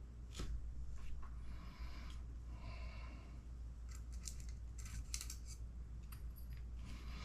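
Small hand tools and hard kit parts being handled: scattered light clicks, a short squeaky rub about two to three seconds in, and a cluster of sharp clicks a little after the middle.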